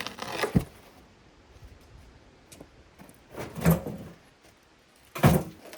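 An old table being handled and moved: three loud knocks and scrapes, about half a second in, a longer one around three and a half seconds, and another just after five seconds.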